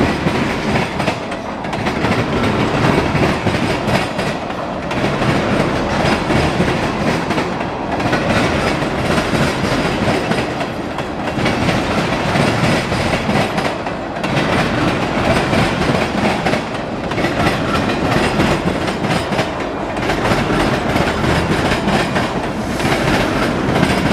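CSX local freight train's cars rolling past while it is shoved backwards, wheels clacking over the rail joints. The sound dips and swells about every three seconds as each car goes by.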